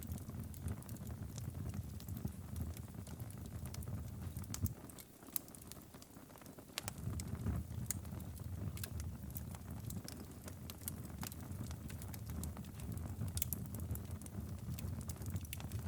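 Wood fire crackling in a fireplace: irregular sharp pops and snaps over a low steady rumble of the flames, which fades for a couple of seconds in the middle before returning.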